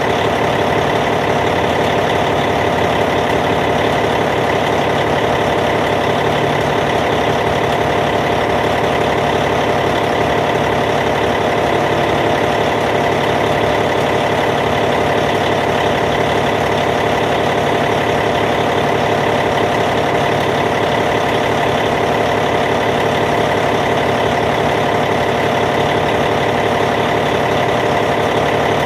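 Caterpillar C15 diesel engine of a D8T bulldozer idling at a steady, even speed.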